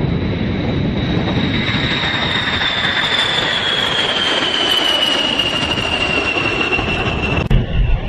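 B-52 bomber's jet engines running at high power, a steady roar with a high whine that slowly falls in pitch, then cuts off near the end.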